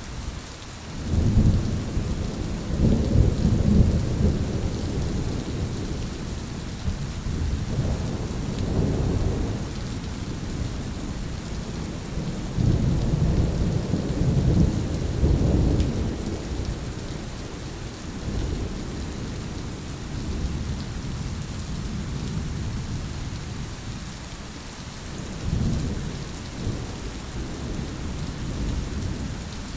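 Thunderstorm: steady heavy rain hissing throughout, with rolling thunder rumbling in waves: a strong rumble about a second in, another around eight seconds, the longest in the middle, and a smaller one near the end.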